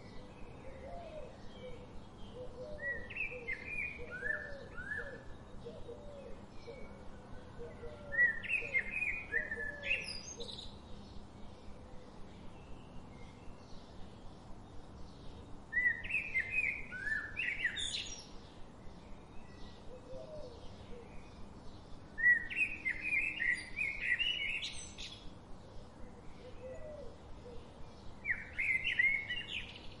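A bird singing in bouts of quick, rising and falling whistled notes, about every six or seven seconds, over a faint steady ticking.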